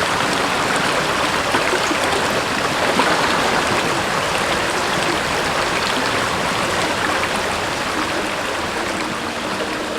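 Mountain stream running over rocks into a shallow pool: a steady rush of water, easing slightly near the end.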